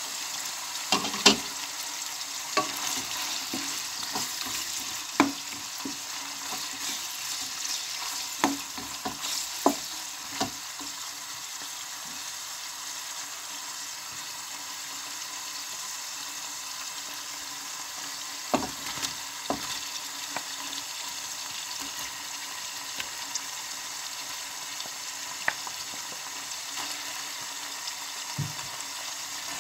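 Pork frying in its own rendered fat with ginger and garlic in a pot: a steady sizzling hiss that starts as the lid comes off. Scattered sharp knocks and scrapes of a utensil against the pot run through it, and onion and tomato are stirred in.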